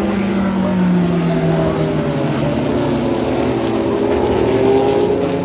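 Historic race car engines running at speed on track. One car's pitch falls over the first two seconds as it passes, while others climb in pitch as they accelerate.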